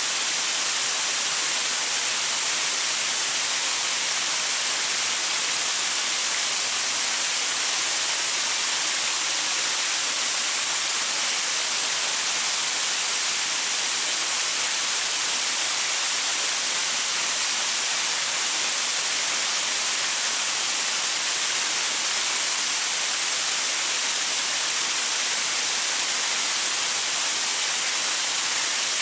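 Small waterfall splashing over rocks in a steady, even hiss without any pauses or changes.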